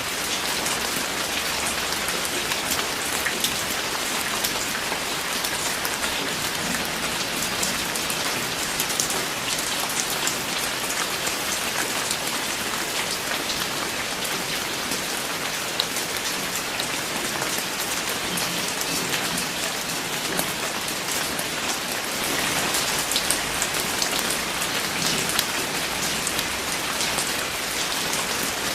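Steady rain falling, with many individual drops ticking on a surface over an even hiss; it grows slightly heavier about three-quarters of the way through.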